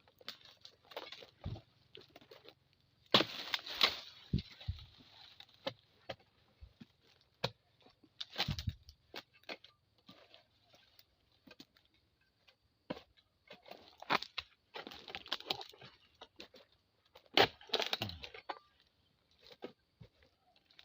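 Oil palm harvesting: irregular cracks, rustles and thuds as stiff palm fronds are cut and handled, with the two loudest bursts about three seconds in and near the end.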